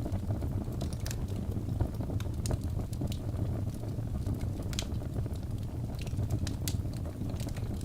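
Wood logs burning in a fireplace: a steady low rumble of flame with sharp crackles and pops, several each second.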